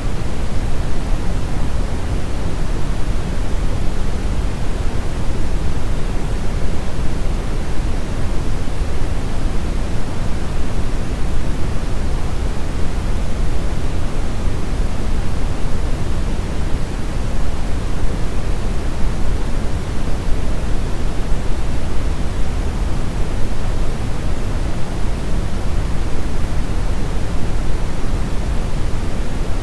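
Brown noise: a steady, even rumbling hiss weighted toward the low end, with no changes or events.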